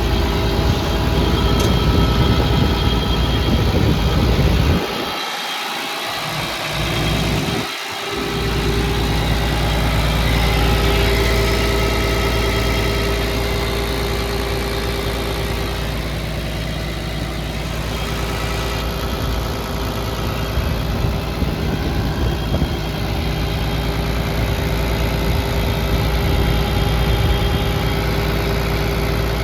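Hitachi Zaxis 200 LC excavator's diesel engine idling steadily. The low rumble briefly drops away twice, about five and eight seconds in.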